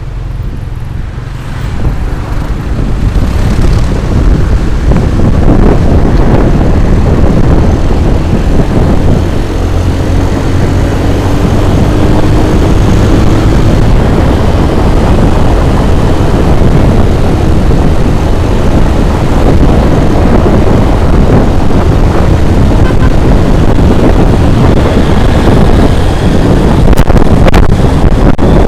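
Loud, steady wind buffeting the microphone on a moving vehicle, with road and engine noise underneath. It builds over the first few seconds, then holds.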